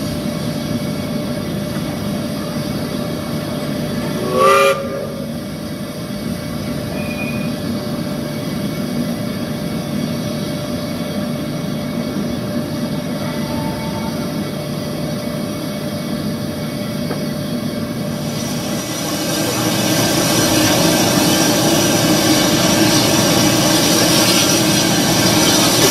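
A slow goods train of wagons rumbling and clattering along the track, with one short steam whistle blast about four and a half seconds in. For the last several seconds a louder steady hiss takes over.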